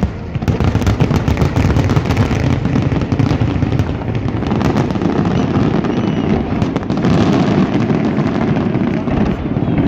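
Large aerial fireworks display: a dense barrage of shell bursts and crackling over a continuous low rumble.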